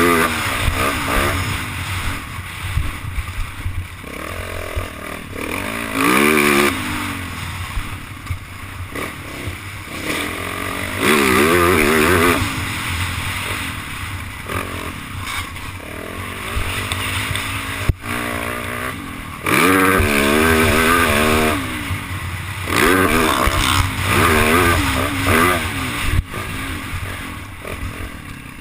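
Yamaha YZ450F four-stroke single-cylinder dirt bike engine being ridden on a motocross track, its revs rising and falling again and again as the throttle is opened hard and shut off, with the loudest pulls several seconds apart.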